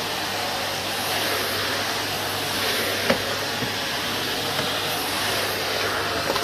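Numatic Henry HVR160 vacuum cleaner running steadily while vacuuming, with one sharp click about three seconds in.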